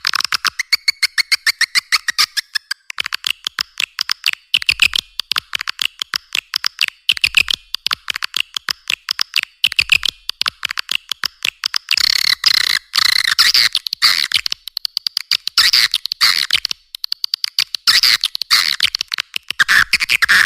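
Recorded swiftlet lure call: a continuous chatter of sharp clicks, several a second, over overlapping twittering trills, growing busier and louder in the second half. It is the kind of call track played in swiftlet houses to draw swiftlets in to roost and nest.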